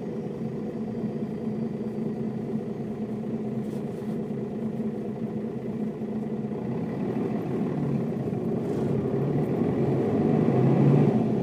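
Mercedes-Benz O407 city bus's diesel engine running steadily with an even low drone, then building in loudness over the second half and peaking near the end.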